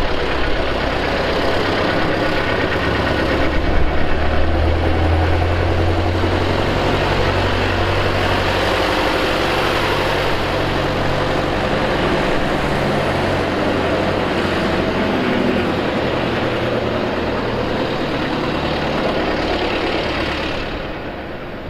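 Air-cooled four-cylinder Deutz F4L514 diesel engine of an airport tractor running steadily, with a deeper hum swelling for a few seconds near the start; it drops in level shortly before the end.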